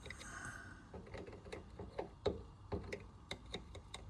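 Light, irregular metallic clicks and taps, a few a second, from a toy steam engine being oiled and handled by hand while still cold.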